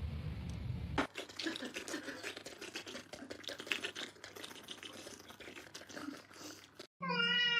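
Several seconds of quick, irregular clicks and wet crackling, after a low rumble that cuts off about a second in; near the end a cat starts meowing.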